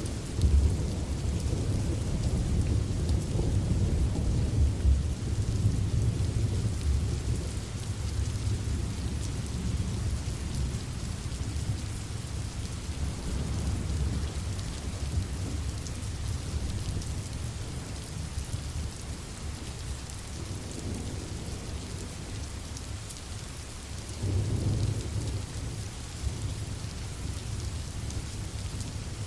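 Steady rain falling with rolling thunder: a long low rumble over the first several seconds that slowly dies away, and a second, shorter rumble near the end.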